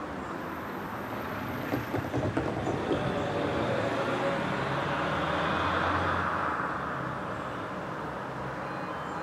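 Approaching diesel passenger train, still some way off: a steady engine drone and rail rumble that grows louder to about six seconds in, then eases slightly. A few sharp clicks about two to three seconds in.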